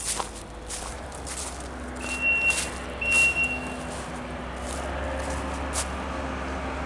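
A vehicle engine running low and steady, with a backup alarm beeping twice, about a second apart, near the middle. A few footsteps crunch along the trail.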